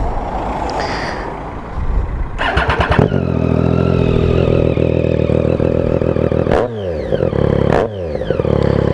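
Triumph Street Triple R 675's three-cylinder engine, breathing through an aftermarket Coffman exhaust with the dB killer removed, catches about two and a half seconds in and settles into a loud, steady idle. Twice near the end the throttle is blipped and the revs drop back.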